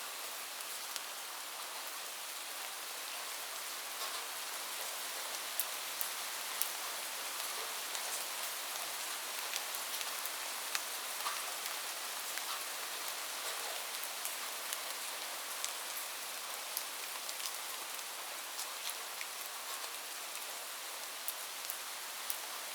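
Steady rain falling, a dense even hiss with scattered sharper drops ticking on a hard surface.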